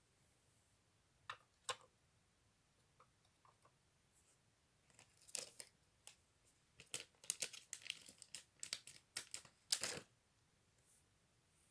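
Plastic LEGO pieces being handled and snapped together: two faint clicks, then a flurry of sharp clicks and crinkly rustling from about five to ten seconds in.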